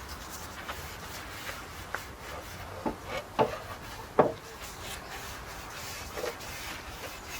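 Paintbrush rubbing oil into European larch planks, the bristles dragging across the wood grain. A few short wooden knocks come between about two and four seconds in, the loudest near the four-second mark.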